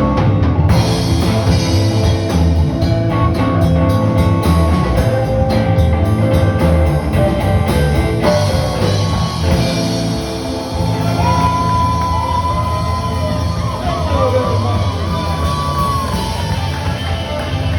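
Live rock band playing loudly: guitar and drums, with a held, bending lead line in the second half.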